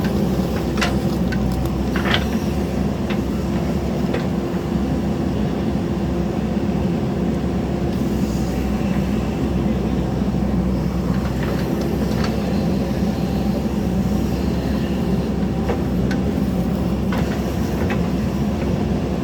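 Diesel engine of a JCB backhoe loader running steadily under work, with a few short sharp knocks scattered through.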